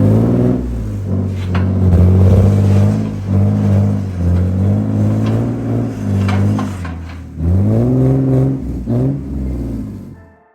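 Car engine accelerating, its pitch climbing and falling back several times as the revs rise and the gears change, with the clearest climb about seven and a half seconds in; it cuts off abruptly near the end.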